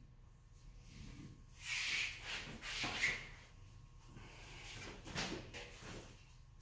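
Tie-down straps being pulled and handled: rustling and rubbing of strap webbing, with a sharp click about three seconds in and another about five seconds in.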